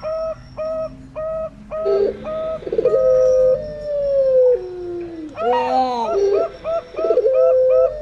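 Zebra doves (perkutut) and puter pelung doves cooing together: a quick run of short repeated coos, about three a second, overlapped by long drawn-out coos that slide slowly down in pitch, one about two seconds in and another near the end.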